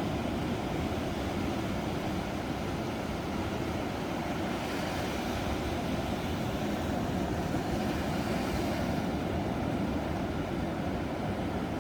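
Ocean surf: a steady low rush of waves, with one wave breaking more brightly about four to five seconds in and hissing away by about nine seconds.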